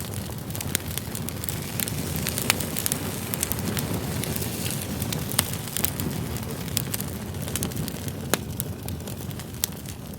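Wood campfire burning, a steady hiss of flames with frequent sharp crackles and pops from the firewood.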